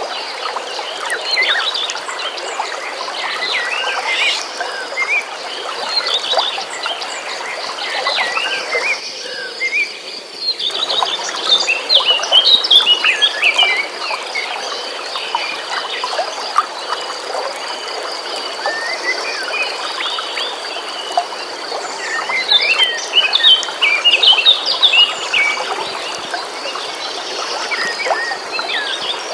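Many birds chirping and singing over the steady rush of a flowing stream, with a steady high tone running underneath.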